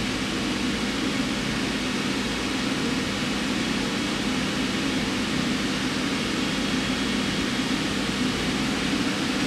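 Steady, unchanging hum and fan-like hiss of running machinery, with a faint low tone held throughout.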